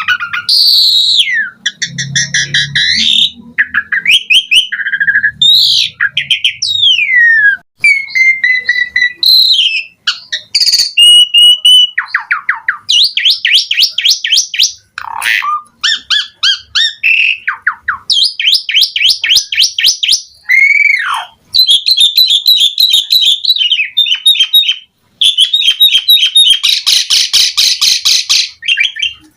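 Asian pied starling (jalak suren) singing a long, varied song: clear whistles that slide up and down, mixed with fast rattling trills and chatter. A dense, loud trill near the end.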